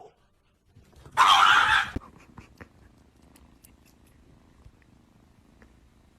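A cat making one short, breathy sound about a second in, followed by a few faint ticks.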